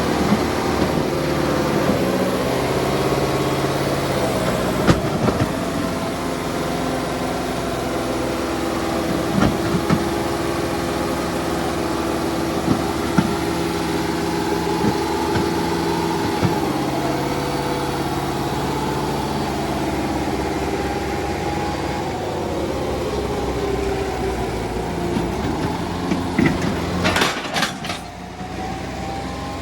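Kubota 5501 tractor diesel engines running steadily, with a few short knocks and a louder clatter near the end.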